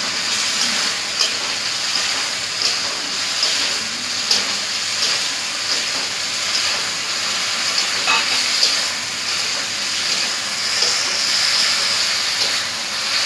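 Fried chicken strips sizzling steadily in a sticky soy, tomato and chilli sauce in a hot pan as they are stirred, with a few clicks from the spatula against the pan.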